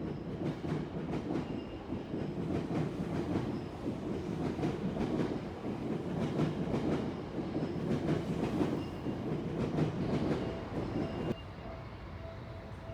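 Seibu Line train running through a level crossing, its wheels clicking over the rail joints. Near the end the train noise stops abruptly, leaving the crossing's warning bell ringing in a steady repeated pattern.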